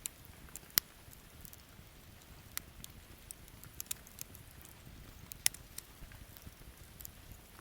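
Wood campfire crackling, with scattered small irregular pops and two loud, sharp snaps: one about a second in and one a little after five seconds.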